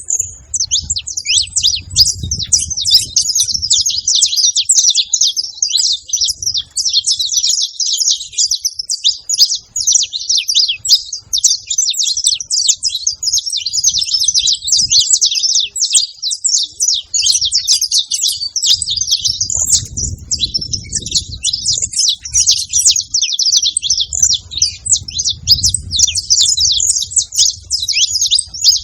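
Saffron finch song: a continuous stream of rapid, high chirps and trills. A low rumble comes and goes underneath.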